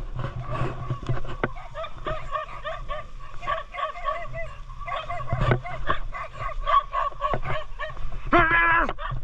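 Dogs yipping and whining in a quick series of short high calls, with one longer, louder whine near the end.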